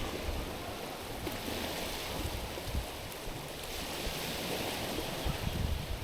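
Small waves washing over a stony, pebbly shore, the hiss of the water swelling twice as waves come in and draw back. Low buffeting of wind on the microphone underneath.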